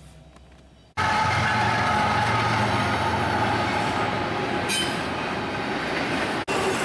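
Train rolling past close by, a loud steady rumble of steel wheels on rail that cuts in suddenly about a second in. A brief high wheel squeal comes near the middle.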